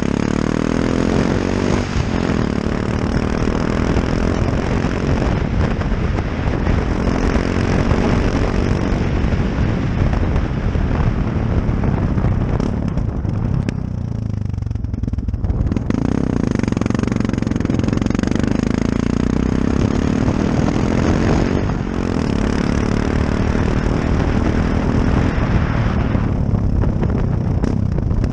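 Yamaha XT660X supermoto's single-cylinder engine under way, its pitch rising and falling as the rider works the throttle through the bends, easing off for a few seconds about halfway. Heavy wind rush on a helmet-mounted microphone runs over it.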